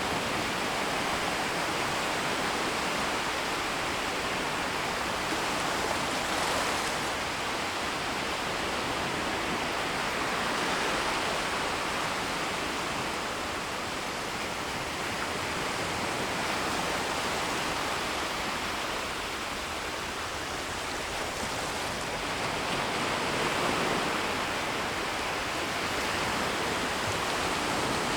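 Small, gentle sea waves washing onto a shallow shoreline and drawing back: a steady wash of water that swells softly every few seconds.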